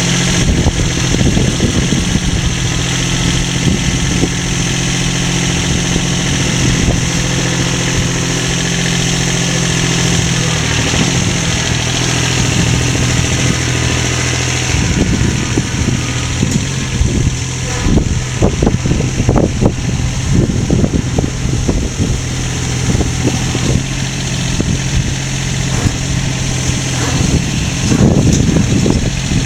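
A motor or engine running steadily, its pitch shifting slightly about a third of the way through, with bursts of clattering knocks in the second half.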